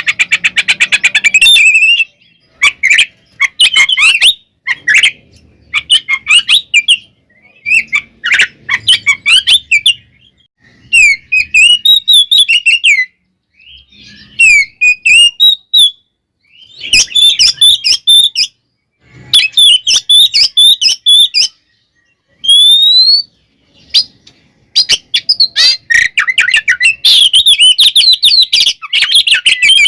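Oriental magpie-robin singing loudly in varied phrases of whistles and chatter, broken by short pauses. It has a rapid rattling trill at the start, a single rising whistle a little past the middle, and fast, dense chattering near the end.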